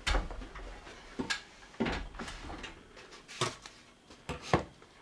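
Scattered knocks and clunks of wood and hand tools being handled during carpentry, about seven separate hits spread unevenly, the loudest near the end.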